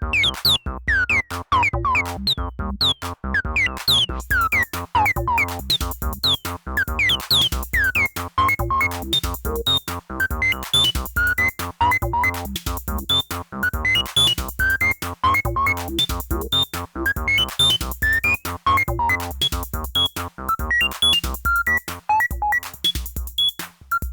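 Behringer TD-3-MO and TD-3 acid bass synthesizers playing sequenced squelchy bass lines over an RD-8 drum machine pattern with a steady kick. About four seconds in, a brighter high layer comes in over the groove.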